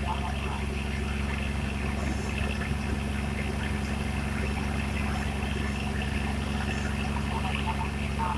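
An engine running steadily, a constant low drone.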